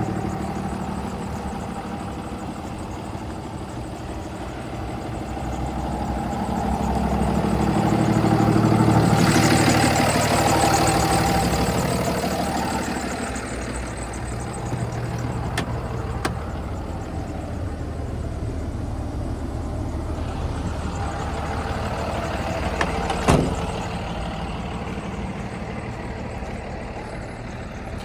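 Cummins 6.7-litre turbo diesel of a Freightliner M2 box truck idling steadily, growing louder for a few seconds in the middle, then easing back. A single sharp knock sounds about three quarters of the way through.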